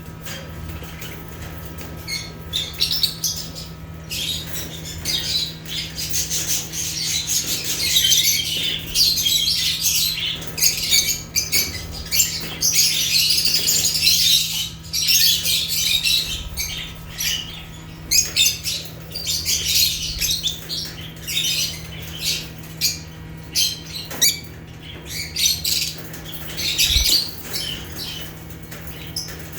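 A group of lovebirds (Agapornis) chirping and squawking at once, in dense high-pitched bursts that rise and fall in busyness, with a steady low hum underneath.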